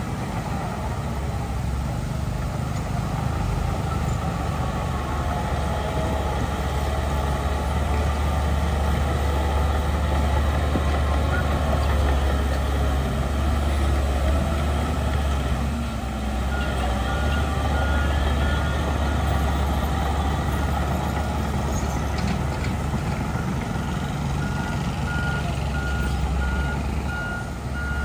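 Heavy diesel earthmoving machinery running steadily with a deep rumble. A reversing alarm starts beeping regularly a little past halfway, pauses briefly, then beeps again near the end.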